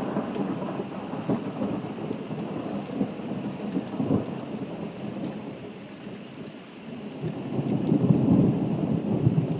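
Thunderstorm: steady rain falling with rolling thunder, a short rumble about four seconds in and a louder rumble swelling near the end.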